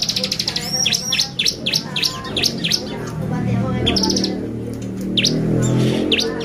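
Bar-winged prinia (ciblek) singing busily: rapid high chirps, short buzzy trills and sharp downward-sweeping notes in quick succession, the lively 'gacor' song used as a lure to provoke other ciblek. A low hum swells underneath through the middle.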